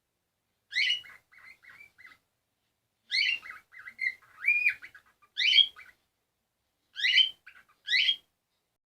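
A bird calling: about six loud calls, each followed by a few shorter, quieter notes.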